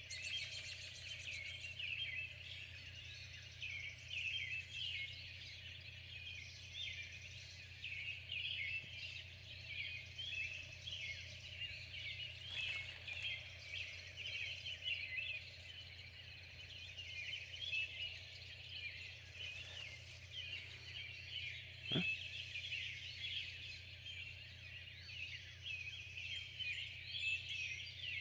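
Early-morning chorus of many small birds chirping and singing at once, with a steady low hum underneath. A single sharp click stands out about three-quarters of the way through.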